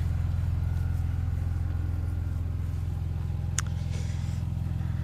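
BMW 325Ci E46's 2.5-litre straight-six idling steadily, with one short click about three and a half seconds in.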